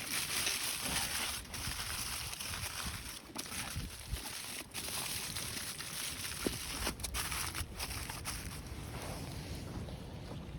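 Blizzard wind blowing, a steady hiss with a low rumble on the microphone, dipping briefly a few times.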